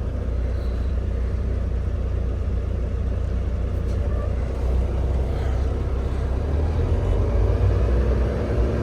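Semi-truck diesel engine running with a steady low rumble, with faint pitch lines coming up in the last couple of seconds as it pulls through the yard.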